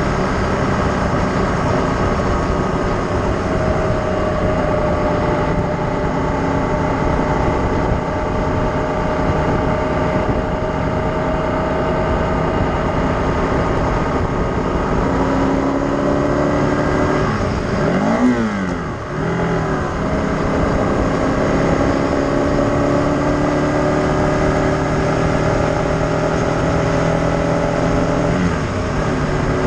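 A motor vehicle engine running while moving, with steady road noise and engine pitch drifting slowly up and down with speed. About 18 seconds in, the pitch dips and swings briefly, as when another vehicle passes.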